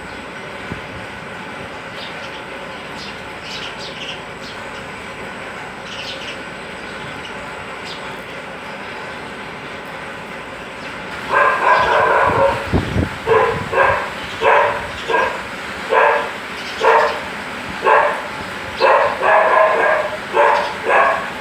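Faint high chirps over a steady background hiss, then from about halfway a run of about a dozen short, loud, evenly spaced animal calls, a little more than one a second.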